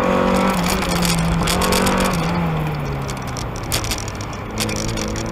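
1992 Mazda Miata's 1.6-litre four-cylinder, with headers and a cat-back exhaust, heard from inside the car: its revs fall steadily over the first three seconds, then it runs low and steady. A few short knocks come near the end.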